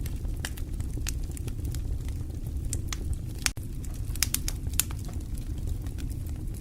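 Fire crackling: irregular sharp pops and snaps over a steady low rumble, with a brief dip in level about halfway through.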